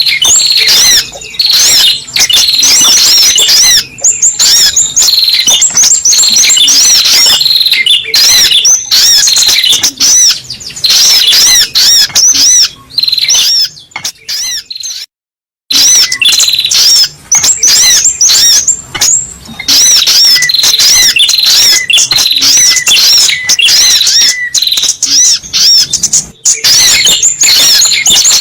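Sogok ontong (a sunbird) lure recording: a loud, unbroken stream of rapid, high-pitched chirping and twittering notes. It breaks off for a moment about halfway through, then resumes.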